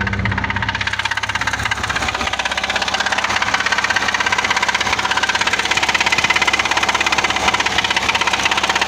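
VAZ-2106 four-cylinder petrol engine idling with a rapid, even knock. The knock is a sign of a badly worn engine, which the owner already writes off as finished.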